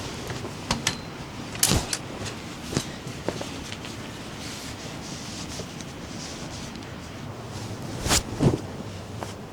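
Steady rain, with a few sharp knocks and clatters over it, the loudest a pair near the end.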